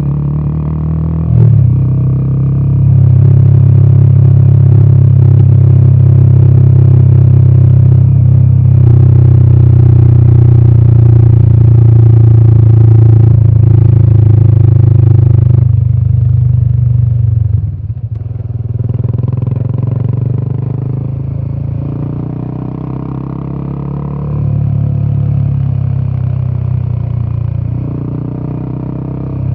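Royal Enfield Himalayan 450's single-cylinder Sherpa engine with its deep, bassy exhaust note, heard on the move. It is held on the throttle for a long stretch with a short break partway, then drops off abruptly about two-thirds of the way through. After that it runs quieter, with the throttle easing and building again.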